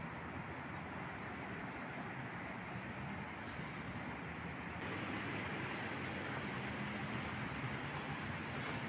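Steady outdoor background noise with a few faint, brief bird chirps about three and a half, six and eight seconds in.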